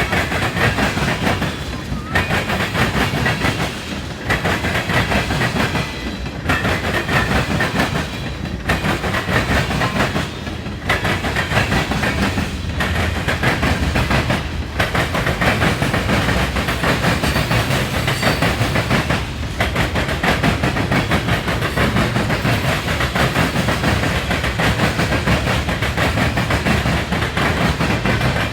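Freight cars of a manifest train rolling past, wheels clattering over the rail joints. In the first half the sound dips briefly about every two seconds as each car goes by.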